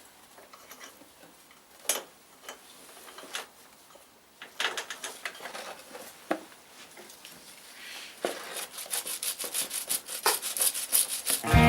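Scattered clicks, knocks and rubbing of objects being handled and set down. The clicks grow denser and come in a quick run over the last few seconds.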